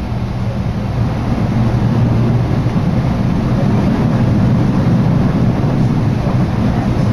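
Train running at speed, heard from inside the passenger carriage: a steady low rumble of wheels on track. It grows a little louder about a second in.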